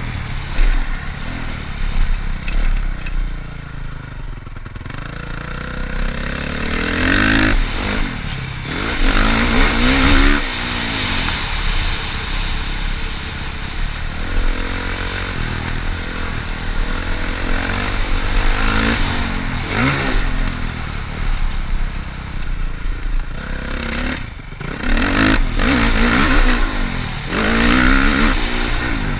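Motocross dirt bike engine being ridden hard, its pitch climbing and dropping again and again as the throttle opens and closes.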